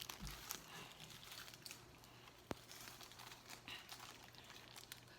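Faint handling of a phone holder's plastic packaging: scattered soft crinkles and small clicks, with one sharp click about halfway through, over a faint steady hum.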